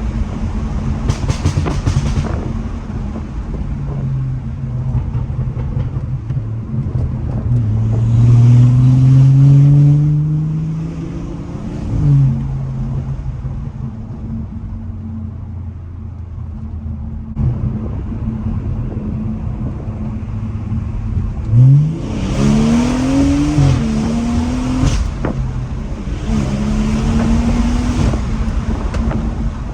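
Straight-piped, tuned BMW B58 3.0-litre turbocharged inline-six pulling hard, its pitch climbing in several runs up through the revs. The loudest pull comes about eight to ten seconds in, and there are short sharp rev blips about twelve seconds in and again about twenty-two seconds in.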